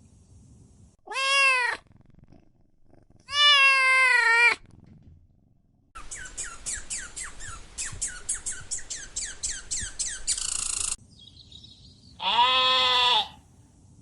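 Domestic cat meowing: three separate drawn-out meows, about a second in, at three seconds and near the end. Between them comes a fast run of short, high, falling chirps, about five a second, ending in a second of hiss.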